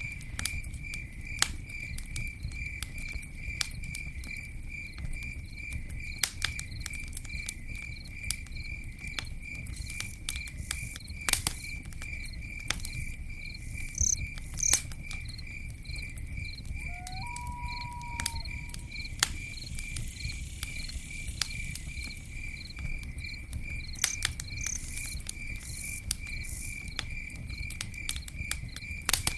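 Campfire crackling with irregular sharp pops over a low steady rumble, while a cricket chirps steadily at about three chirps a second. A short whistled note sounds about two-thirds of the way through.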